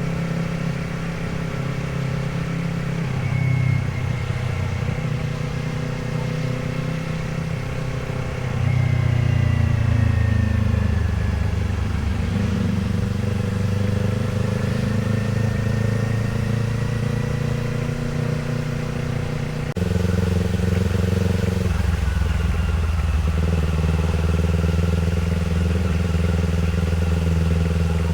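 Kawasaki Z500 parallel-twin engine running while riding, its note shifting up and down with throttle and gear changes. It steps up louder about a third of the way in and again about two-thirds of the way in.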